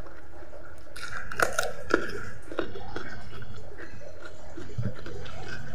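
Close-up eating sounds of raw cucumber: several crisp crunches of chewing from about a second and a half in, then softer wet chewing.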